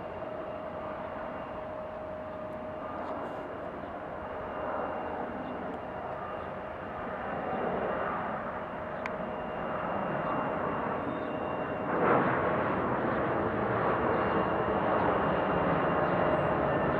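Jet airliner's engines: a steady whine under a rushing noise that grows louder, with a sharp step up about twelve seconds in.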